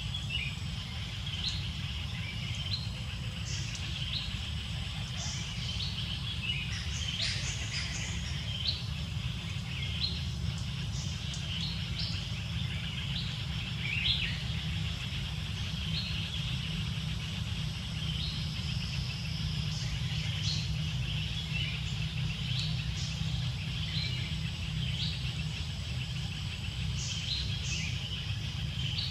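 Forest birds chirping: short high calls every second or two, a little busier about seven seconds in, over a steady low rumble of background noise.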